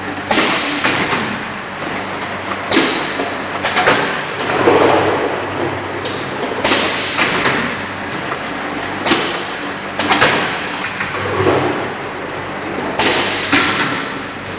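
Four-nozzle bottle filling machine running: a steady mechanical background with a sudden burst of clattering noise every one to three seconds, each fading over about a second.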